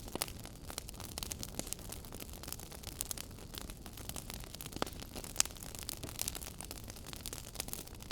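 Wood fire crackling in a fireplace: a steady soft rumble under constant small crackles, with a couple of sharper pops about five seconds in.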